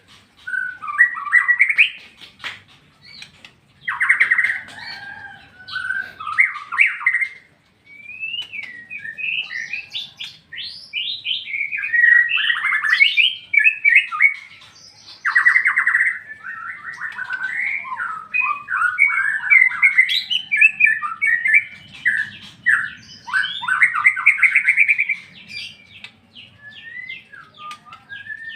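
White-rumped shama singing a long, varied song of gliding whistled phrases mixed with rapid chattering runs, broken by short pauses.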